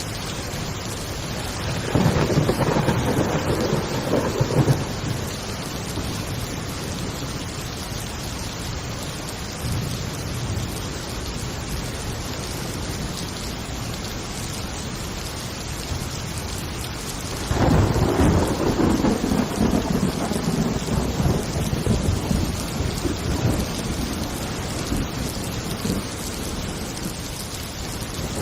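Thunderstorm: steady heavy rain with two rolls of thunder, one about two seconds in and a longer one past the middle that rumbles on and slowly fades.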